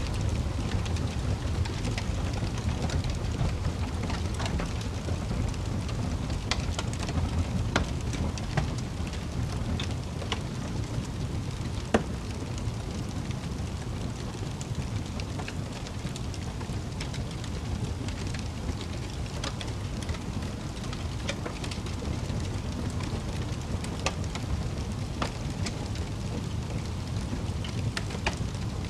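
Wood fire crackling in a fireplace: a steady low rumble with scattered sharp pops, one louder pop about twelve seconds in.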